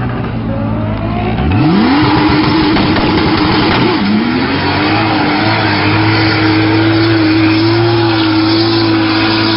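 Car engine revving up sharply, dipping briefly as if through a gear change, then holding steady at high revs.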